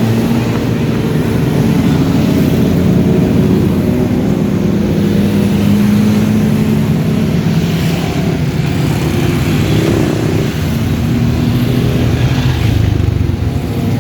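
Motorcycle engines in a slow-moving caravan of bikes, running loudly and steadily, with occasional revving.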